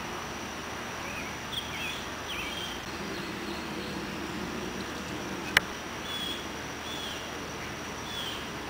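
Wild birds chirping in short high notes on and off, over a steady high-pitched hum, with one sharp click a little past halfway.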